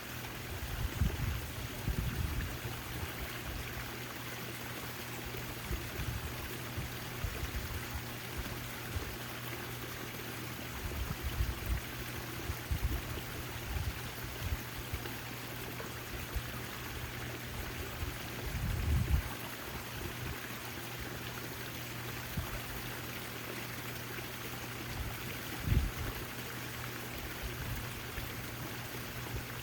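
Backyard fountain water splashing and trickling steadily, over a steady low hum. Brief low rumbles come a few times, the strongest about 19 and 26 seconds in.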